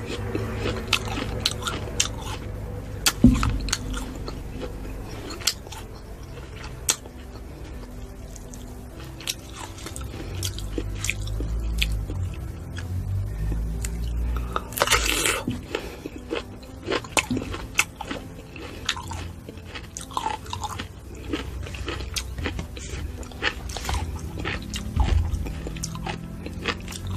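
Close-miked biting and chewing of crisp raw fruit: a string of sharp crunches with wet chewing between, and one long, loud bite about halfway through.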